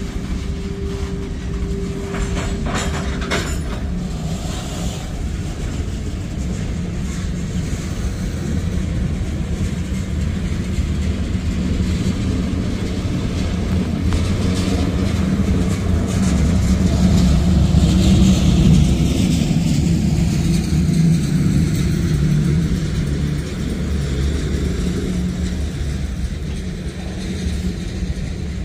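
Freight train cars, covered hoppers and boxcars, rolling slowly past: a steady low rumble of steel wheels on rail that grows somewhat louder past the middle. A thin steady tone stops about three seconds in, and a few clanks sound around two to three seconds in.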